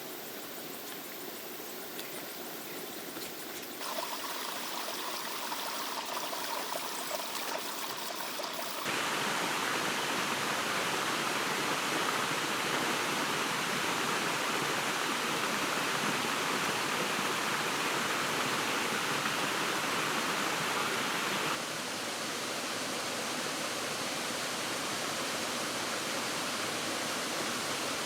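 Steady rushing of flowing water, a stream or small waterfall, that jumps abruptly louder twice in the first third and drops back a little later on, as if cut between different spots along the water.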